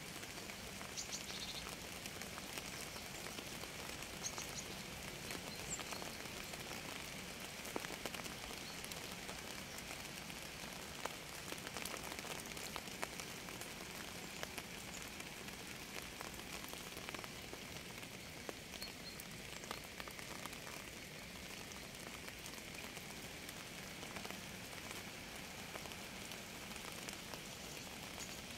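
Steady rain falling, with many separate drops ticking onto a surface.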